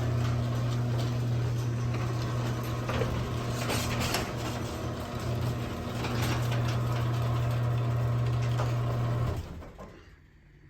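LiftMaster chain-drive garage door opener running: a steady motor hum with chain and door rattling over it, cutting off suddenly about nine seconds in.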